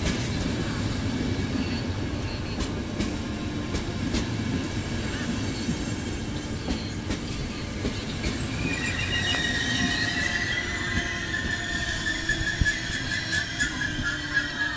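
Train running past with a steady low rumble; a little over halfway through, a high, steady metallic wheel squeal sets in and holds.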